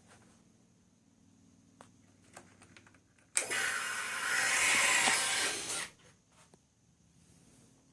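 Ducati 1198 SP's L-twin engine cranked on the starter for about two and a half seconds, starting about three seconds in, without catching: a hard start. Before the cranking, a faint steady hum and a few light clicks.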